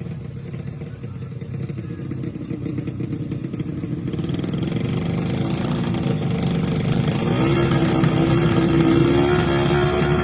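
A 130cc underbone drag-race motorcycle engine running with a rapid, even firing beat. About halfway through it revs up and gets steadily louder.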